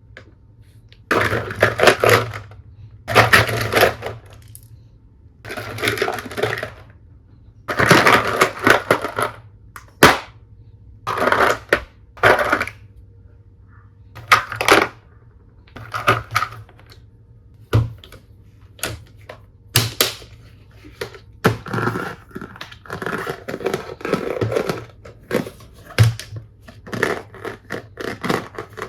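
Plastic toy tool pieces and their packaging being handled, in irregular bursts of rustling and clattering a second or two long, with a few sharp clicks in between.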